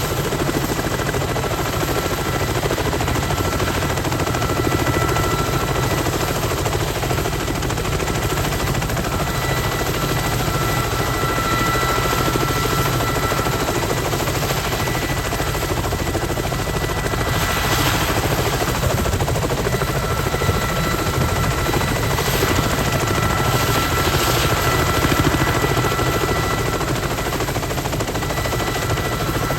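Kamov Ka-32 coaxial-rotor helicopter running steadily: a rapid, even rotor chop under a steady high two-tone turbine whine.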